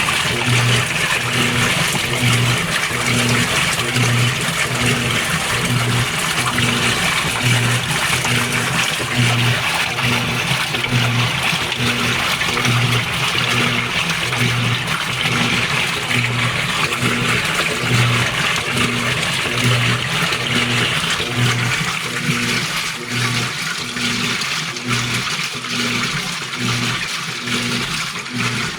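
Washer of a GE Spacemaker laundry center agitating during the rinse: water sloshing in the tub, with a low motor hum that pulses about once a second on each agitator stroke, the pulses growing weaker near the end.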